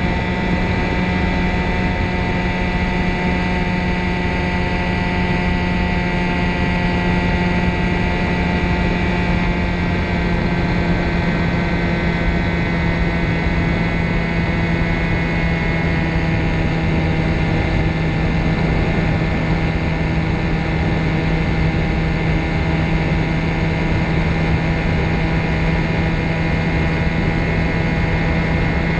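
Ultralight trike's engine and propeller running steadily at high power over a loud rush of air noise, the engine note easing down slightly twice.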